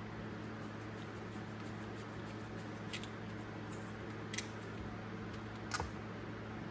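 Three light, sharp clicks of small hand tools and parts being handled, over a steady low hum.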